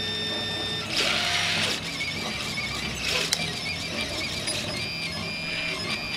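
RepRap 3D printer's stepper motors whining in steady tones that jump to new pitches as the moves change. Two short hissing rushes come in, one about a second in and a shorter one around three seconds.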